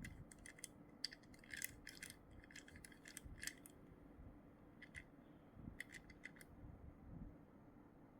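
Plastic packaging being handled and opened: quiet, crisp crinkles and clicks in a quick flurry over the first few seconds, then a few more crackles later on.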